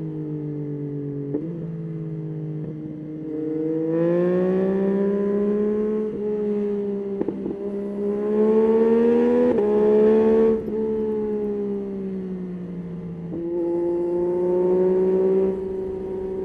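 Yamaha Tracer 9's 890 cc inline-three engine under way, its note rising as the throttle opens about four seconds in and again around eight seconds in, with short breaks in the note, then easing off; it opens up once more near the end. Loudest about eight to ten and a half seconds in, where it cuts back suddenly.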